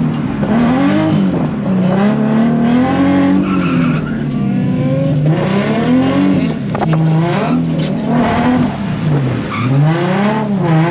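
Drift car's engine revving up and down over and over as the throttle is worked through a slide, its pitch rising and falling every second or two, with tyres skidding on the wet track.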